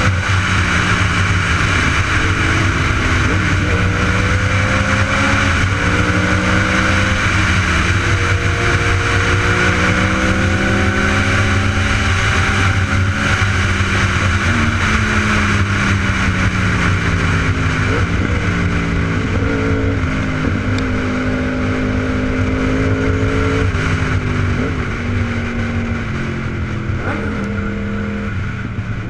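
Superbike engine running under way, its pitch climbing and then dropping back at each gear change, over steady wind rush.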